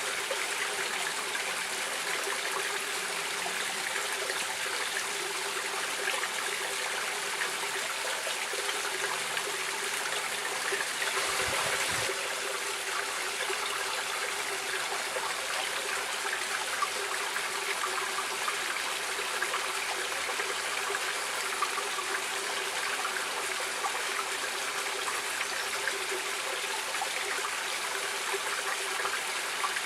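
Running water of a stream, a steady, even rush without pauses.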